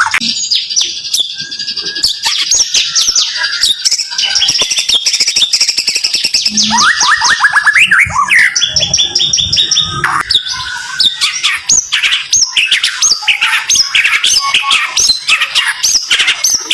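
Murai batu (white-rumped shama) singing tight rapid-fire 'tembakan' phrases: fast runs of sharp high notes mixed with quick rising and falling whistles, packed close together with hardly a pause.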